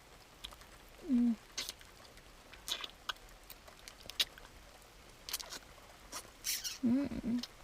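Close-miked mouth sounds of a voice actor acting out a vampire biting and drinking blood: scattered wet clicks and sucking noises, with a short hum about a second in and another near the end.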